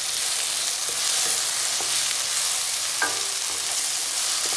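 Onion-tomato masala sizzling in oil in a nonstick pan while a wooden spatula stirs the spice powders through it, with a few short clicks of the spatula against the pan.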